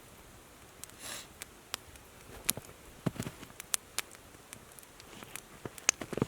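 Campfire crackling, with scattered sharp pops at irregular intervals and a couple of soft low thumps, about three seconds in and near the end.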